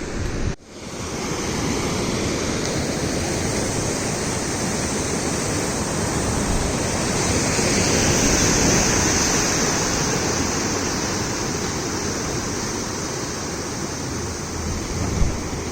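Sea waves at spring high tide surging and breaking against a seawall: a continuous rush of surf and spray that swells around the middle. It cuts out for a moment just after the start.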